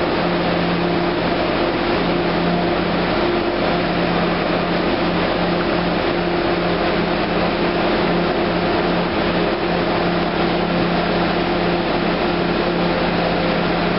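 MBTA commuter rail train of bilevel coaches moving past the platform: a steady, loud drone with a constant low hum and the even rush of wheels on the rails.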